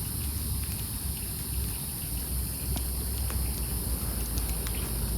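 Campfire of burning logs crackling: scattered single sharp pops and snaps over a steady low rumble and hiss.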